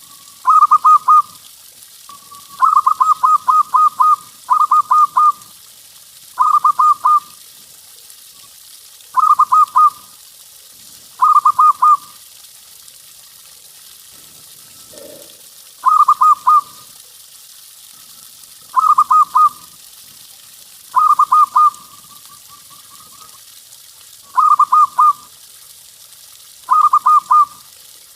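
Zebra dove cooing in full song: short phrases of rapid stuttering coos, each under a second long, repeated every two to three seconds over a steady hiss.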